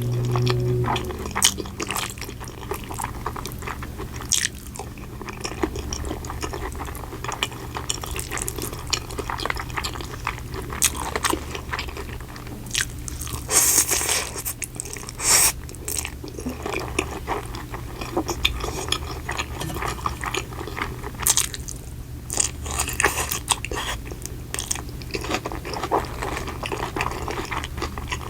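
Close-miked eating sounds: a person biting and chewing food, with many short sharp crackling bites and louder clusters of them around the middle and about three-quarters of the way through.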